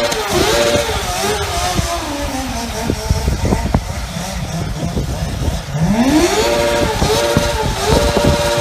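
Motorcycle engine revving up and down in quick blips, dropping lower for a few seconds, then rising steeply about six seconds in and holding a high, steady rev near the end.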